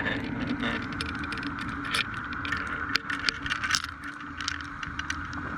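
Fishing boat's engine hum, heard steadily through an underwater camera, with many sharp clicks and crackles scattered through it.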